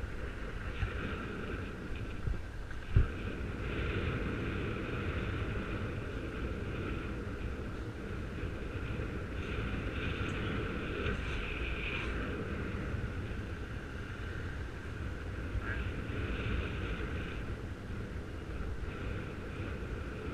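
Wind rumbling over a helmet-mounted microphone while cycling, with one sharp knock about three seconds in.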